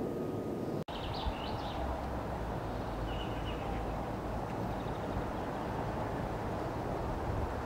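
Outdoor ambience: small birds chirping in short bursts about a second in and again around three seconds, over a steady low background rumble.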